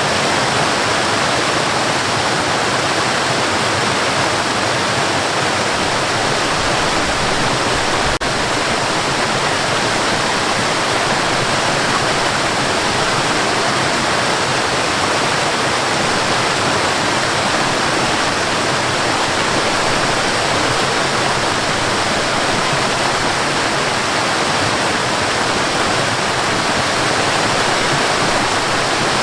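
Waterfall: the steady, even sound of falling water, unchanging throughout.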